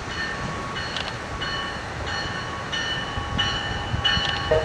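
Train running at the station: a steady low rumble with thin high-pitched tones that come and go, louder near the end.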